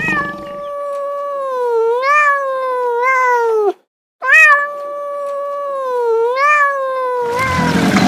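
Cat yowling: two long drawn-out meows, each wavering in pitch and sliding down at the end, with a brief pause between them. A noisy rush cuts in near the end.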